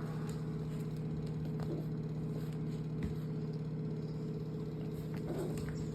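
A steady machine hum at a constant pitch, like an engine idling, with a few faint clicks.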